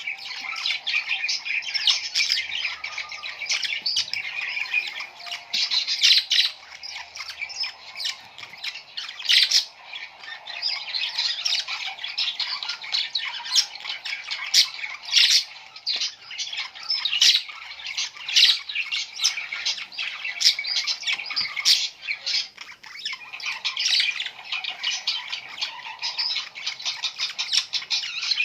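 Many small birds calling at once: a dense, unbroken chatter of short, sharp chirps and calls overlapping throughout.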